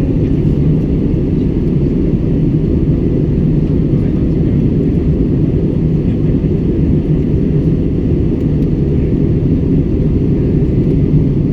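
Airliner cabin noise in flight: a steady, low rumble of jet engines and airflow heard from inside the passenger cabin.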